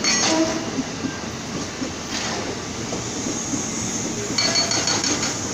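Train running slowly into a station on the adjacent track: a steady rumble of wheels on rail with scattered clicks. A thin high tone joins about four seconds in.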